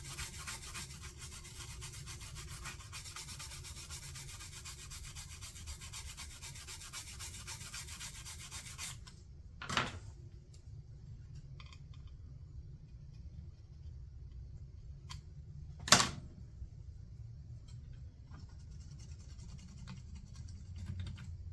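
Toothbrush scrubbing an electronic control board wet with isopropyl alcohol: a steady, fast scratchy rubbing that stops about nine seconds in. Two sharp knocks follow, the louder one about six seconds after the first.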